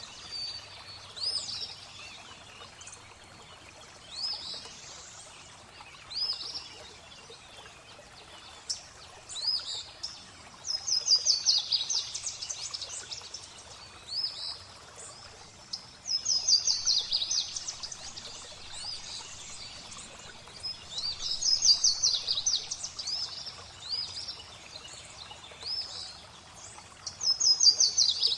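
Songbirds singing over steadily flowing water. One bird repeats a fast, high trill about every five seconds, with shorter single chirps in between.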